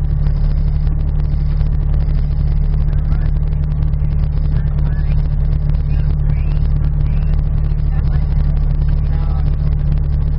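Mini Cooper S (R53)'s supercharged 1.6-litre four-cylinder engine idling steadily, heard from inside the car.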